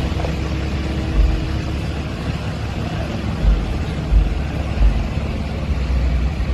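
Steady road and wind noise from a moving vehicle, with low rumbling gusts buffeting the microphone every second or so.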